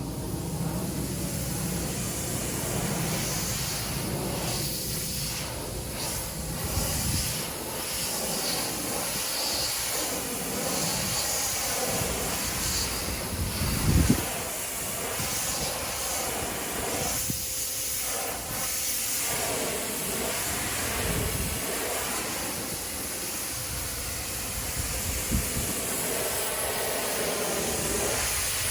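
Electric pressure washer spraying water onto vinyl siding: a steady hiss of spray with brief breaks, and one short low thump about halfway through.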